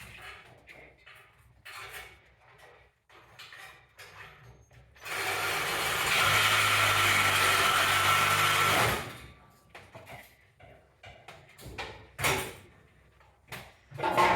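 A reciprocating saw (Sawzall) runs for about four seconds, starting about five seconds in, cutting through the exhaust pipe. Scattered knocks and clanks from work on the exhaust come before and after it.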